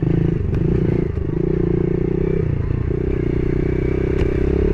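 Yamaha TTR110E pit bike's small single-cylinder four-stroke engine running at low revs, the throttle rolled off and back on a few times, with some light clatter.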